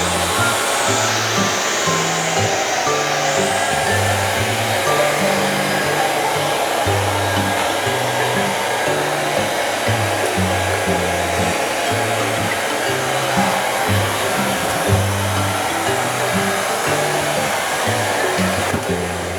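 Hair dryer blowing steadily, with background music playing a low bass line underneath.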